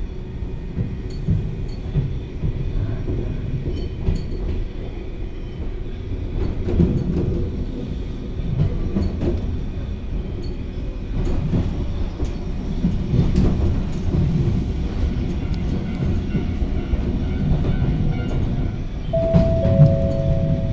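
Electric commuter train heard from inside the passenger car: a steady running rumble with the wheels clicking over rail joints. Near the end, a steady two-note tone comes in.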